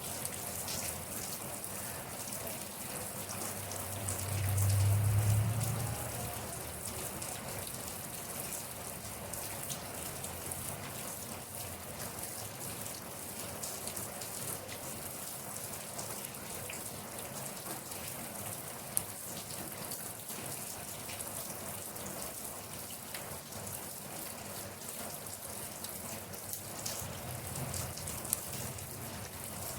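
Steady rain falling on a surface, an even hiss of many drops, with a brief low rumble about five seconds in and a couple of sharp single drip clicks later on.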